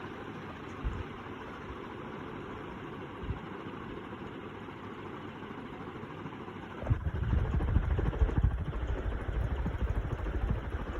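Klarstein industrial ceiling fan running at medium speed, about 250 revolutions per minute, with a steady rush of moving air and two light knocks early on. About seven seconds in, a much louder, uneven low rumble starts and carries on.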